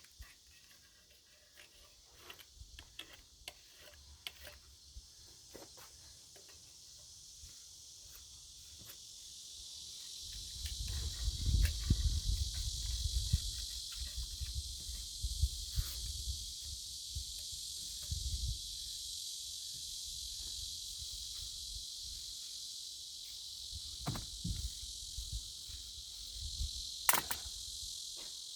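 A steady, high-pitched insect chorus that grows louder over the first third, with scattered clicks and low thumps and rumbling from handling or movement through the middle.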